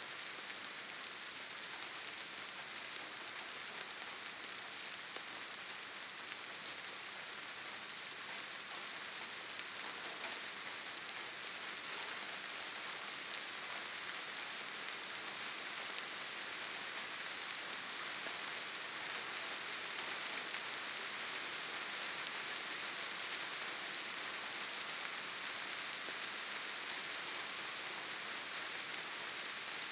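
Steady rain falling: a dense, even hiss of drops with faint individual drop ticks.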